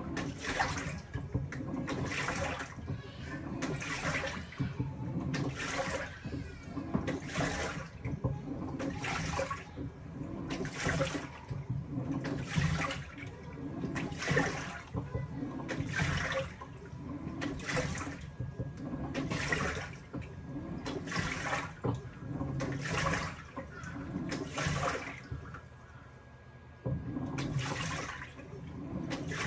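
Panasonic top-loading washing machine in its foam wash: water and laundry churning in a swish about once a second as the pulsator turns one way and then the other. Near the end it stops for about a second and a half, then starts again.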